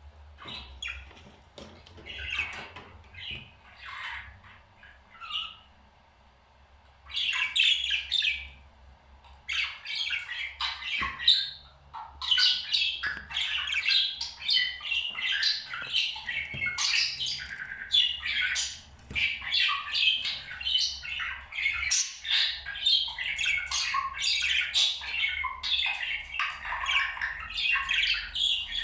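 Pet parrot chattering and squawking in a fast run of short chirps. A few scattered calls at first, then near-continuous chatter from about seven seconds in.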